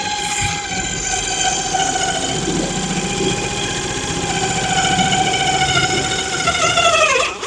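Cordless drill running steadily for about seven seconds, driving a self-tapping screw. Near the end its pitch falls as it winds down, and then it stops.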